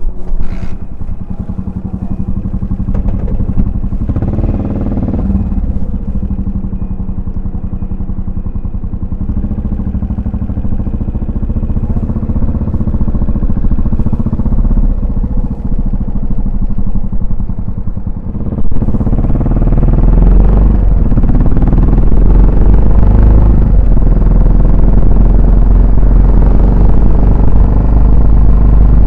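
Yamaha SR400's single-cylinder four-stroke engine and exhaust running steadily while riding. It gets noticeably louder and heavier in the low end about two-thirds of the way through.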